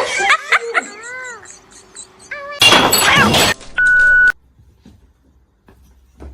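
A cat meowing several short times, then a loud crash of about a second like something breaking, followed by a brief steady tone.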